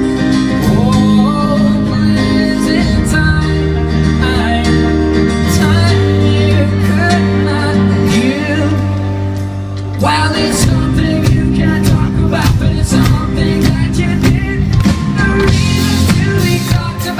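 Live pop-rock band playing a song, with guitar and singing. About ten seconds in, the full band comes in with drums and a steady beat.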